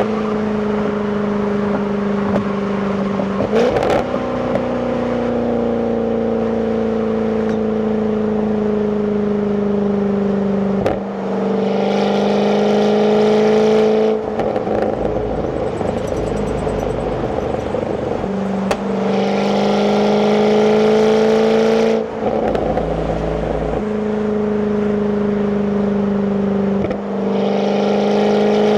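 Jaguar F-Type 5.0 supercharged V8 on its stock exhaust, heard from inside the cabin while driving. The engine note holds a steady pitch, then changes abruptly about five times as the gears change. It gets louder and fuller in three stretches of acceleration: around the middle, a little later, and near the end.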